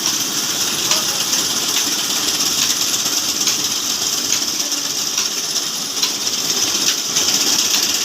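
Large old stationary diesel engine running steadily: a continuous hissing, clattering mechanical noise with faint knocks now and then.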